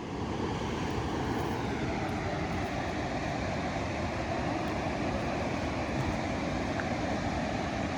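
Steady rushing roar of Colorado River rapids, even and unbroken.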